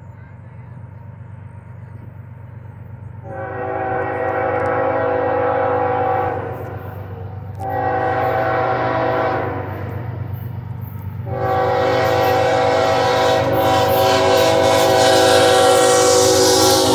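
A diesel freight locomotive's multi-chime air horn blows two long blasts, then a third held blast about eleven seconds in, over the low rumble of the engine, which grows louder as the train comes closer. A rising rushing noise near the end is the train arriving.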